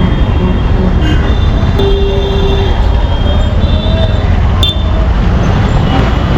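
Busy city street traffic: a steady rumble of engines, with horns sounding now and then, one short horn note about two seconds in.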